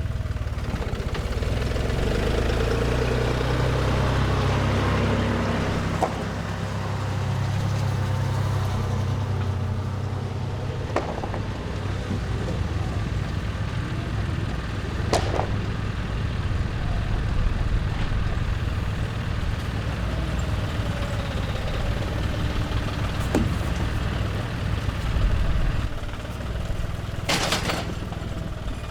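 An engine running steadily at low revs, with a few sharp knocks or clunks and a brief hiss near the end.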